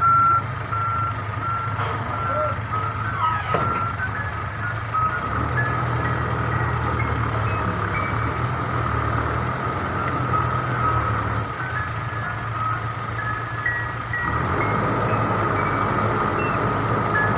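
Heavy truck engine running with its reversing alarm beeping repeatedly; the beeps give way to a steadier alarm tone with short higher notes, and the engine gets louder near the end.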